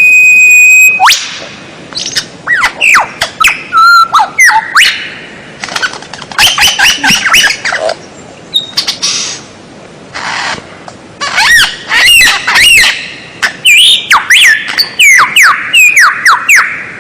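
Songbird song: loud, rapid runs of sharp falling whistles mixed with harsh squawky notes, opening with one held high whistle, in short phrases with brief pauses between them.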